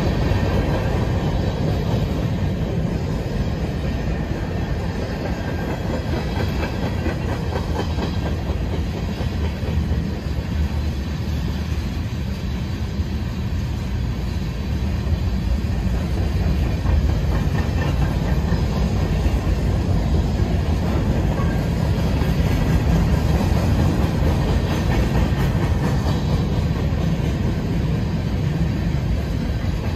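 Freight train of covered hopper cars rolling steadily past: a continuous low rumble of steel wheels on rail with a run of clickety-clack clicks as the wheel sets pass over the rail joints.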